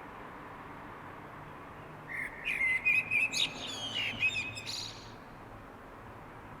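A songbird singing at night: one varied, warbling phrase of quick notes lasting about three seconds, starting about two seconds in, over a faint steady background hum.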